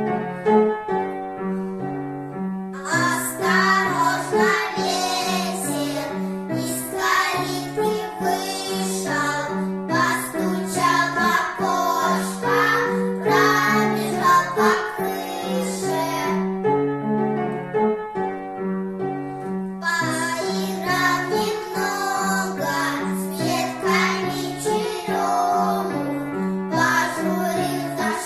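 A song with a keyboard accompaniment: a short instrumental intro, then a voice sings from about three seconds in, breaks off for a few seconds of accompaniment alone in the middle, and comes back in.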